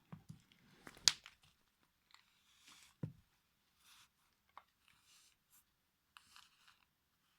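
Toy car being pressed and crushed under a high-heeled sandal: scattered crunches, creaks and scrapes, with one sharp crack about a second in and a duller knock about three seconds in.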